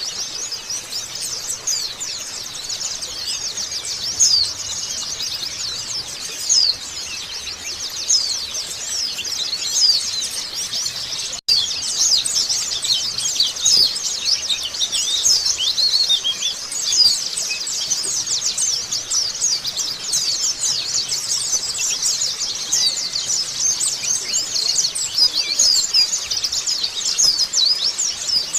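White-eye (pleci) song: dense, fast, high-pitched twittering and chirping that runs on without a break. There is one very brief dropout about eleven seconds in.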